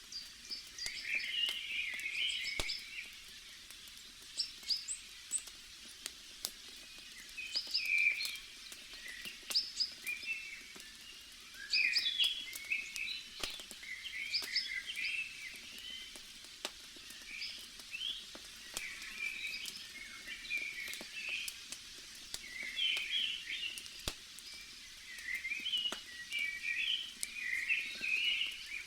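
Small birds chirping and singing in short repeated phrases over a crackling campfire, which gives scattered sharp pops and snaps.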